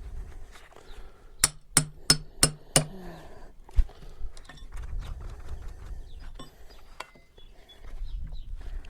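Metal tool being hammered into a red oak log to dig out an embedded nail. Five quick, ringing metal-on-metal blows come about three a second, then scattered lighter clinks and one dull thump.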